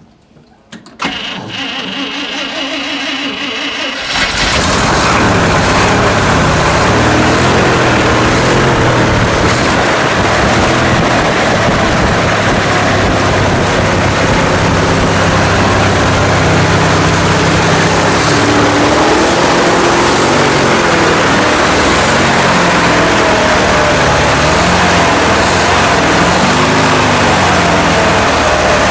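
1968 International 1500 truck's engine being started after sitting unused for a while: the starter cranks for about three seconds, then the engine catches and keeps running steadily.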